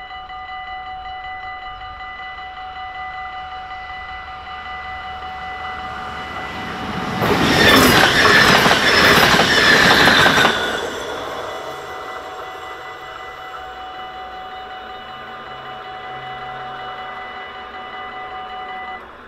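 Dutch level crossing warning bell ringing steadily while a train passes, loud for about four seconds in the middle with wheel noise on the rails. The bell stops near the end.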